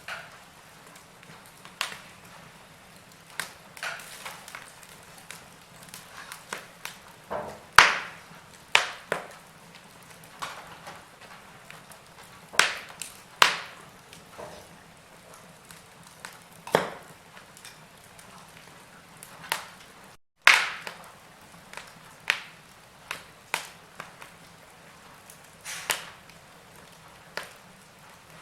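Wood fire crackling, with irregular sharp pops of burning wood over a faint steady hiss. The sound cuts out completely for a moment about twenty seconds in.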